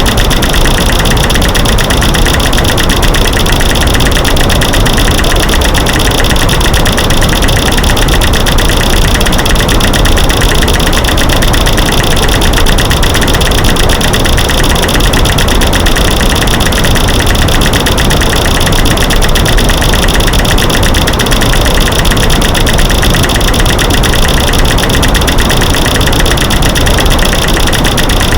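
Dense, rapid, unbroken clicking and cracking, mixed from recordings of light switches being flicked, sticks snapping and rocks knocked together, laid over a steady white-noise hiss. It is loud and keeps an even pace, a masking noise for drowning out creaking floors.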